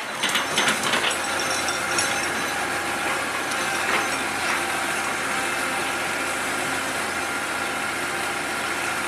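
Excavator working, its diesel engine running steadily, with a few clanks and rattles of metal in the first second or so.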